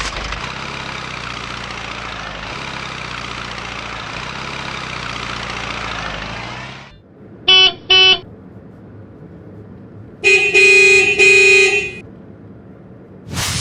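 Cartoon vehicle sound effects: a truck engine running steadily, cutting off suddenly after about seven seconds. Then two quick horn toots, and a couple of seconds later a longer, louder horn honk.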